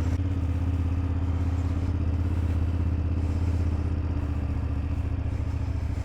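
BMW F800GS parallel-twin motorcycle engine running at a steady speed, an even low pulsing note that holds its pitch.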